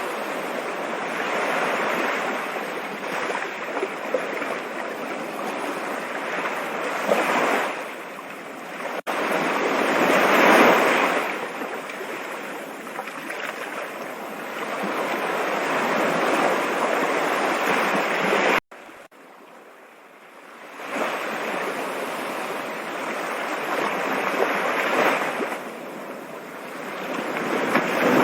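Rushing water, a steady hiss that swells and eases every few seconds. It drops off abruptly about two-thirds of the way through, then builds back up a couple of seconds later.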